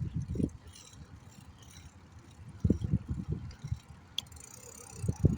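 A bicycle rattling and knocking as it rides, in three bursts of low thumps: one at the start, one in the middle and one near the end.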